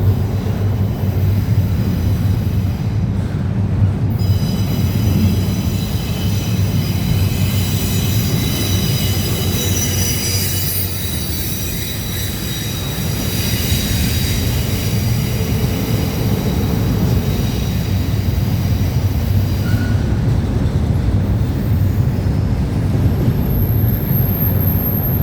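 Freight train rolling past with a steady heavy rumble of wheels and cars; a high wheel squeal sets in a few seconds in, peaks around the middle and fades out a few seconds before the end.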